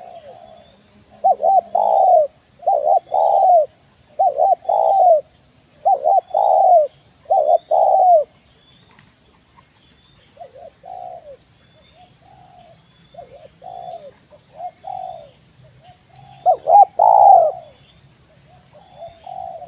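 Spotted dove (tekukur) cooing: repeated coo phrases, loud and regular at first, then fainter coos for several seconds, with one loud phrase again near the end.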